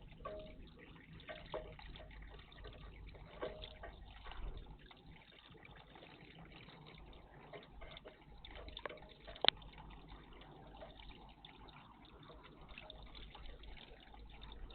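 Water moving in a garden bird bath, with scattered small clicks and one sharp click about nine and a half seconds in.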